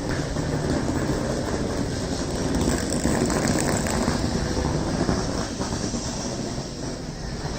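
A train passing on the rails: a steady rumble that swells to its loudest about three seconds in and eases a little near the end.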